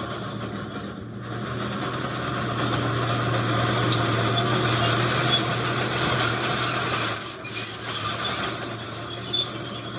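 Heavy earthmoving machinery working: a steady diesel engine hum with dense mechanical noise above it, growing louder about two seconds in and dipping briefly near seven seconds.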